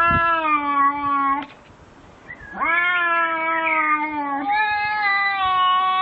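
An animal's long, drawn-out yowling calls at a steady pitch. A call of about a second and a half is followed by a short pause, then another long call that steps up in pitch and carries on.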